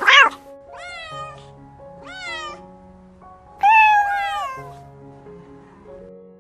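Domestic cat meowing: a short sharp call at the start, then three meows about a second apart, the last one the longest and loudest. Background music plays under it.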